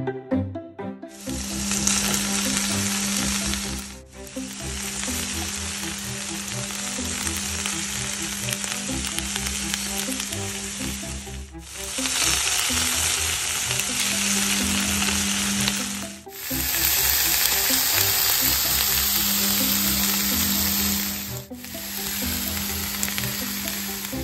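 Chicken strips and sliced vegetables (onion, carrot, bell peppers, zucchini) sizzling in a frying pan over high heat. The sizzle starts about a second in and drops out briefly four times.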